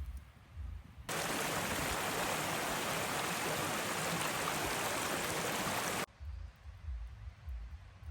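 Rushing water: a steady, loud hiss that starts abruptly about a second in and cuts off suddenly about five seconds later. Faint low rumbling comes before and after it.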